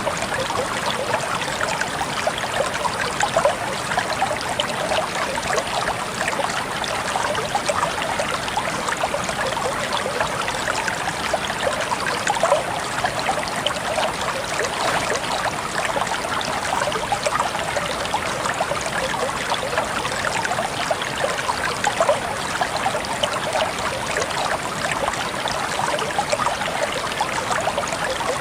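Water trickling steadily, a dense, even patter of small splashes and droplets.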